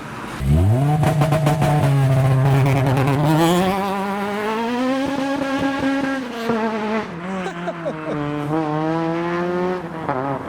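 A car engine revving hard as a car pulls away. The pitch shoots up about half a second in, holds, climbs higher a few seconds later, then falls back and wavers as the driver comes off the throttle.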